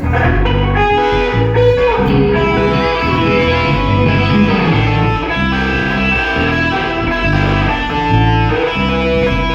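Band playing: electric guitar lines with sustained notes over a bass line that shifts notes about every half second.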